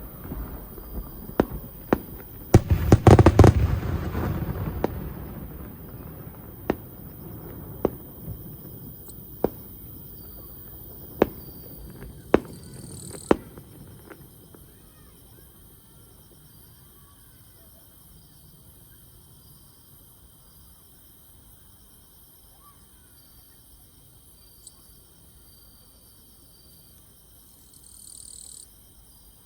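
Fireworks shells bursting: a rapid volley of loud bangs about three seconds in, then single sharp reports every second or two that stop about fourteen seconds in. Insects keep chirping steadily under the bangs and are left alone after them.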